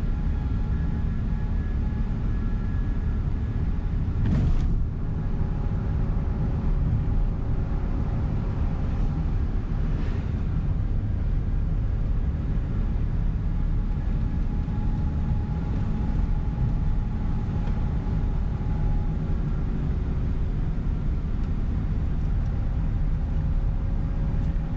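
Tour coach driving on the road, heard from inside the cabin: a steady engine and road rumble with faint steady whining tones over it. A jolt comes about four and a half seconds in and a lighter one at about ten seconds.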